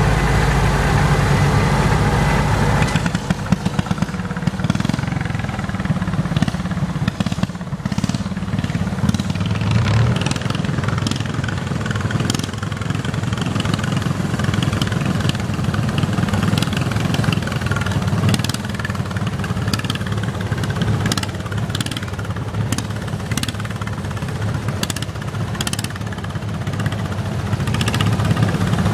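Garden tractor engine running. About three seconds in, the steady note turns into a rougher, rapidly pulsing beat, with scattered sharp clicks over it.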